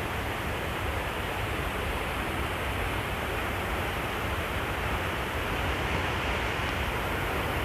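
Steady rush of a waterfall's falling water, an even hiss and rumble with no break.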